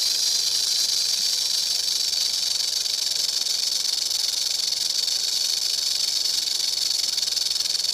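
Rattlesnake rattling its tail: a continuous, steady, high-pitched buzz that holds without a break.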